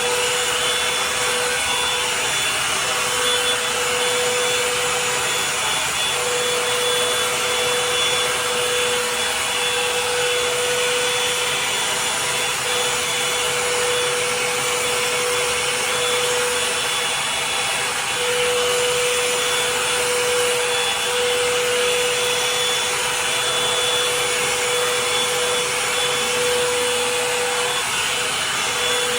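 Revlon hot-air dryer brush running steadily, blowing air with a motor whine, as it is worked through damp hair.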